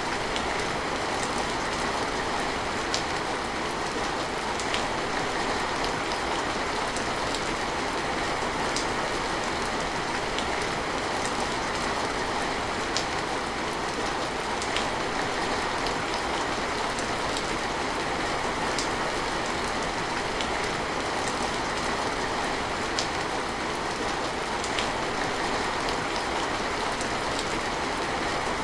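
Steady rain falling, an even hiss with single louder drops ticking every couple of seconds.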